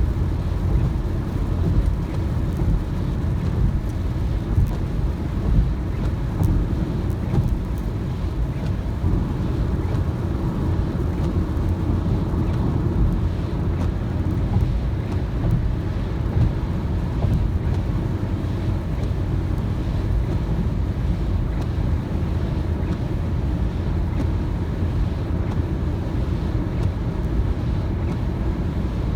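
Steady low rumble of a car driving on a wet road in the rain, with faint scattered ticks over it.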